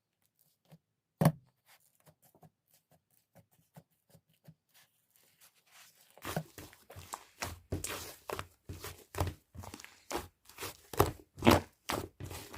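Slime being squished and stretched by hand, giving irregular sticky pops and clicks. A single loud tap about a second in, then sparse faint clicks, and from about six seconds in a dense run of louder pops.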